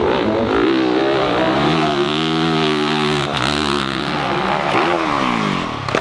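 Dirt bike engine revving hard, its pitch rising and falling several times as the throttle is worked, then cutting off suddenly at the end.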